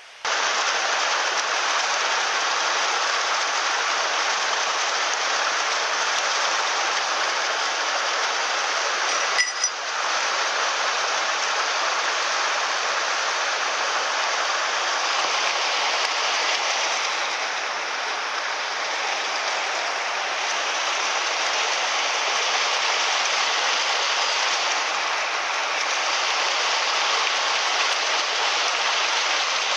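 Mountain stream water rushing steadily, starting suddenly at a cut, with one brief sharp knock about nine and a half seconds in.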